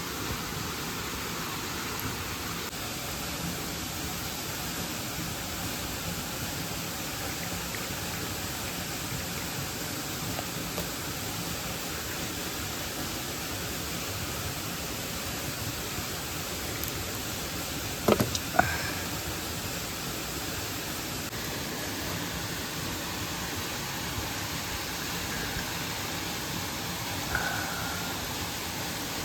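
Steady rushing of a mountain stream and waterfall, an even hiss of water with no change. A couple of sharp clicks or knocks sound close together about two-thirds of the way through.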